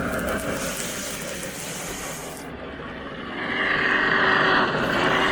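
Sound system of a Lionel O gauge model steam locomotive (Norfolk & Western 611) running on its layout, with a hiss of steam that grows louder about three and a half seconds in.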